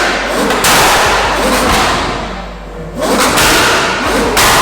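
Ferrari F12's 6.3-litre V12 through a freshly fitted IPE exhaust, blipped repeatedly: each rev climbs and falls quickly, with loud, harsh exhaust noise on every blip.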